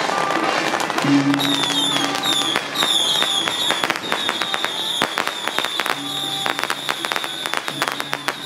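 A string of firecrackers crackling rapidly and irregularly, over music with a high, wavering tone and a lower steady tone.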